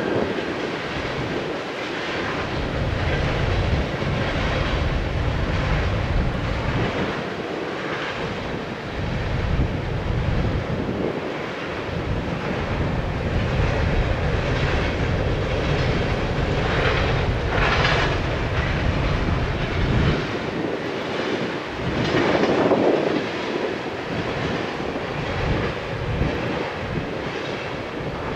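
Freight train of open hopper cars rolling past, wheels running on the rails, with gusty wind buffeting the microphone in a low rumble that comes and goes.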